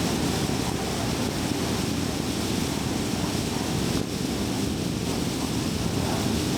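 Steady road noise of a car driving: tyres on the road surface and the engine making an even, low rumble.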